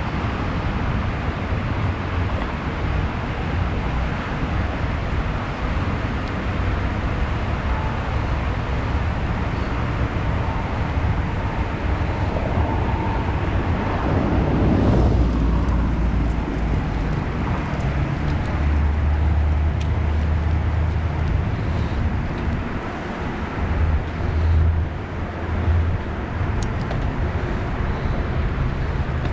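Steady road and traffic noise while riding, with a constant low rumble underneath. A louder swell, like a vehicle going by, comes about halfway through.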